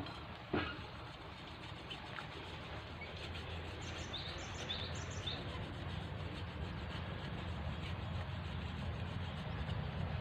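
A bird chirping three or four times, short high notes about four to five seconds in, over a steady low hum, with one sharp click just after the start.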